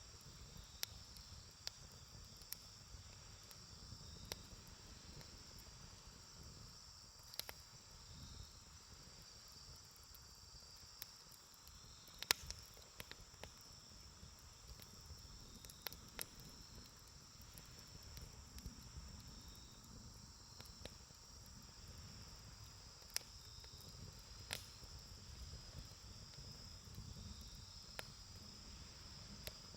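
Faint campfire crackling, with irregular sharp pops (the loudest about twelve seconds in), over a steady high chirring of insects.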